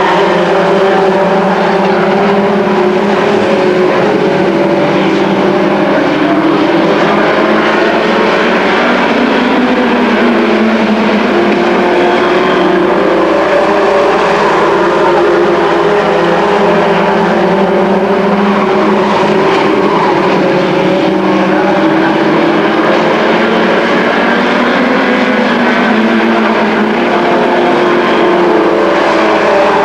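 A field of race trucks running laps on a short oval, their engine notes overlapping and rising and falling as they go through the turns.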